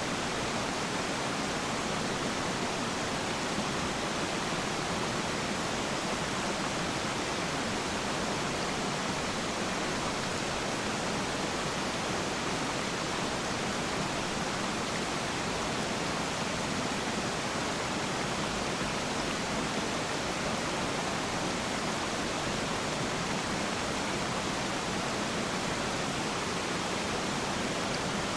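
Waterfall rushing: a steady, even hiss of falling water with no separate splashes standing out.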